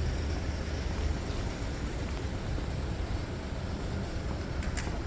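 Steady city street noise dominated by the low rumble of passing traffic, with a short click near the end.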